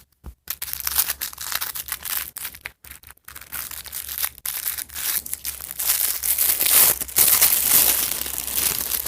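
Doll shoe box being opened and its packaging crinkling and crunching as the shoes are unwrapped. The sound is irregular and gets louder in the last few seconds.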